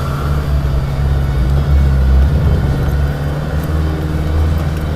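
Land Rover Defender's engine running steadily under light load as the truck drives slowly over a rough dirt track, a deep continuous drone.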